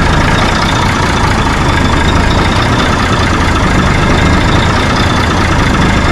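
Heavy truck engine idling steadily, an even low running sound with no change in speed.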